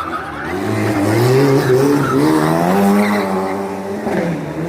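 Drift car's engine revving hard, its pitch climbing over about three seconds and then dropping back near the end.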